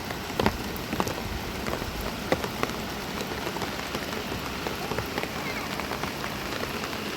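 Steady rain falling, with many sharp drops striking close by at irregular moments.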